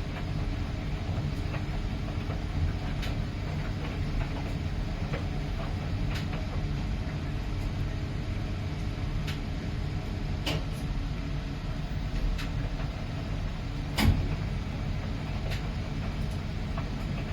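Miele PW 6080 commercial washing machine running with a steady low rumble and irregular sharp clicks and knocks every second or few, the loudest about two-thirds of the way in.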